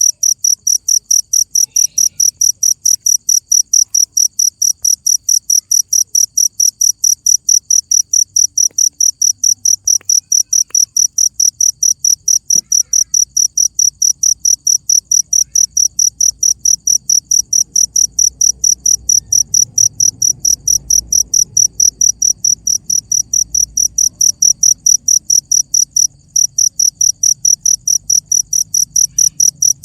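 Cricket chirping steadily: loud, high-pitched chirps repeating about three to four times a second, with one brief break late on.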